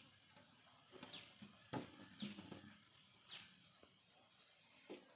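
A bird repeats a short call that sweeps downward, three times about a second apart. Between the calls come a few soft knocks from a knife working a whole chicken on a metal plate, the loudest near the middle.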